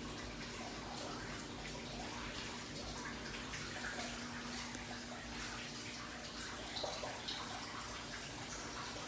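Water running steadily into a large aquarium as it is filled, a continuous splashing hiss.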